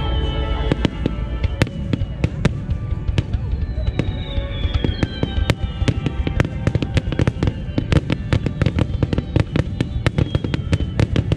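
Starmine fireworks barrage: a dense, quickening run of sharp bangs and crackles from shells bursting in quick succession, with falling whistles from whistling shells.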